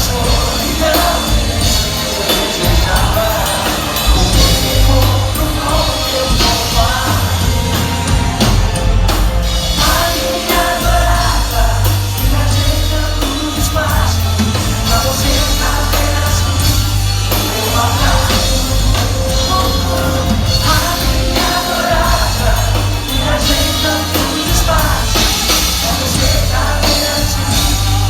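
Live pop-rock band playing, with a lead vocal over drums, bass guitar and guitars, loud and steady throughout.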